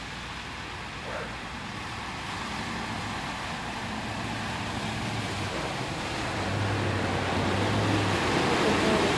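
A motor vehicle approaching on a flooded street, its low engine hum and the rush of road and water noise growing steadily louder.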